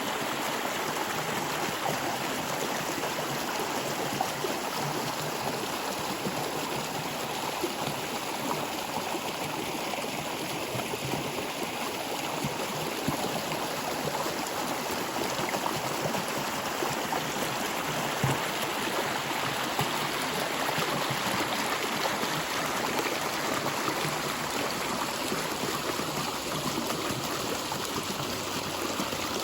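Stream water flowing steadily over rocks, an even rush with light gurgling and trickling.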